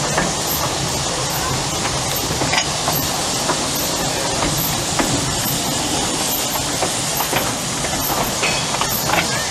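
A 2 ft gauge narrow-gauge train running: a steady rushing noise with occasional sharp clicks.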